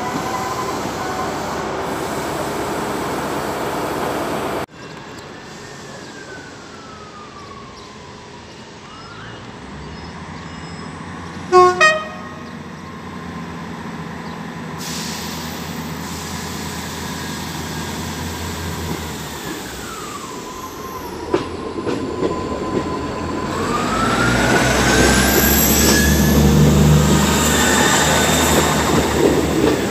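An InterCity 125 HST with its diesel power car passes close by, cut off suddenly about five seconds in. Then a Class 159 diesel multiple unit approaches: two short horn blasts about twelve seconds in, then its diesel engines and wheels grow loud with some squealing as it runs into the platform in the last few seconds.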